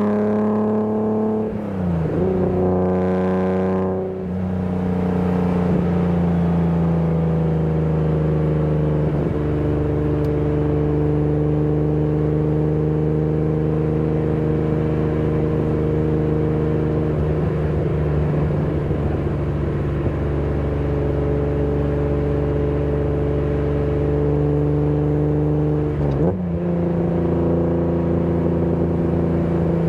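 BMW E30 323i's 2.3-litre straight-six engine pulling the car on the road, its pitch dropping at gear changes about two and four seconds in, then holding a steady drone at cruise. Brief changes in the engine note come about nine seconds in and again near the end.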